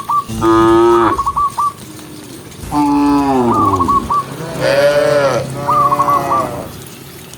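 Cows mooing: several loud, drawn-out moos, each lasting about a second and sliding down in pitch. A short high trill recurs between the calls.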